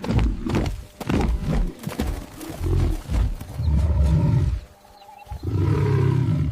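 A big cat giving a series of deep, rough growling roars, about five bursts with short pauses between them.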